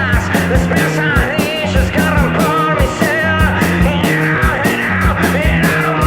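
Surf-punk rock music played on electric guitar, bass guitar and drums, with a fast, steady beat.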